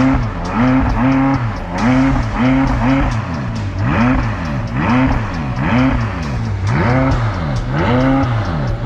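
McLaren 540C's twin-turbo V8 being revved in quick, repeated blips of the throttle, about a dozen in a row, each rising and falling in pitch. It is loud.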